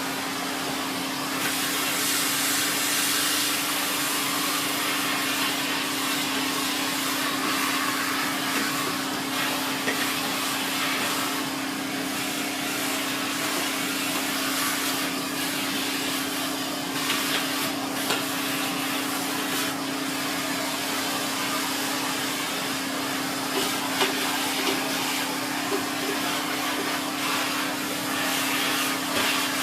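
Siemens Z6.0 Power 2500 W bagged cylinder vacuum cleaner running while vacuuming: a steady motor hum under the rush of airflow, with a few brief knocks partway through.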